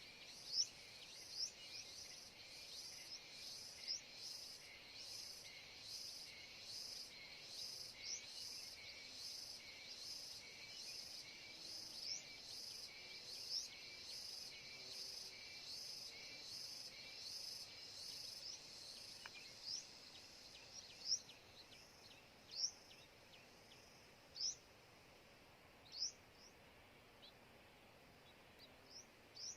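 A small bird chirping: short, sharp rising chirps repeated every second or two, over a steady, faint, high insect drone with an even pulse that fades out after about twenty seconds.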